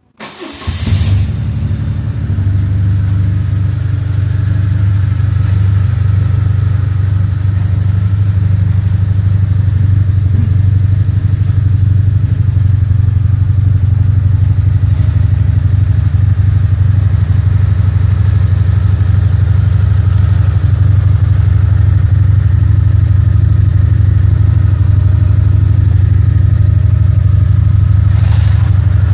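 BMW R1150R's boxer twin engine, breathing through an aftermarket silencer, starting up in the first second and then idling steadily with a deep, even exhaust note.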